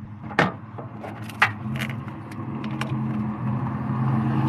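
A few sharp metal clinks of tools and parts being handled on the engine, over the low, steady hum of a vehicle that grows louder as it draws near.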